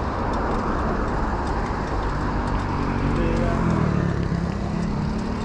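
Steady city street traffic heard from a moving bicycle: motor vehicles running close by, with a constant low rumble of wind and road noise on the camera microphone.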